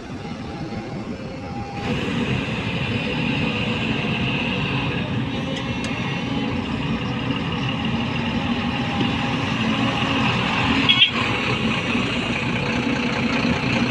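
Heavy diesel machinery running steadily while an excavator loads soil into a tipper truck. The engine noise gets louder about two seconds in, and there is a single brief sharp knock or clank about eleven seconds in.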